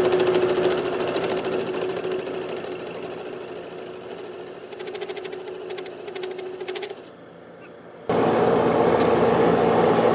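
A fast-pulsing power tool runs steadily and stops abruptly about seven seconds in. About a second later a different steady machine noise starts.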